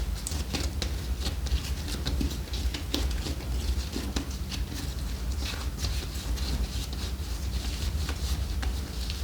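Sheep eating raw potatoes: an irregular run of crunching, clicking chews over a steady low rumble.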